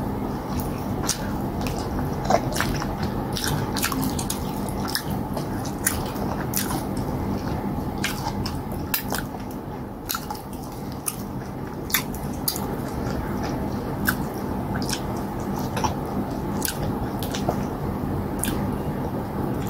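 A person chewing with their mouth close to the microphone while eating cassava fufu and okra stew by hand, with many short mouth clicks and smacks throughout, over a steady low hum.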